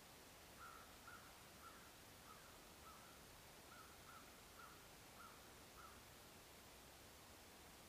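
Faint bird calls: about ten short calls repeated roughly twice a second, stopping about six seconds in, over near silence.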